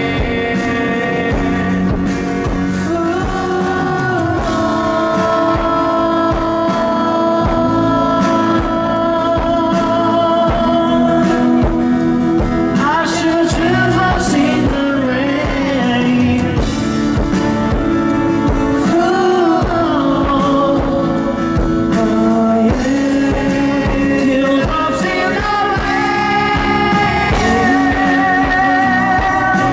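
Live rock band music in an instrumental stretch of a rock ballad, with a sustained melodic lead line that bends in pitch in the middle.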